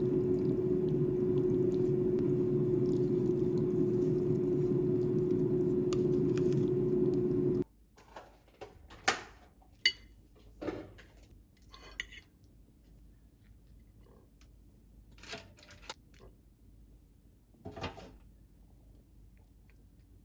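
A steady rushing noise with a constant hum cuts off abruptly about eight seconds in. After it come a dozen or so light clinks and knocks of dishes and kitchen utensils being handled.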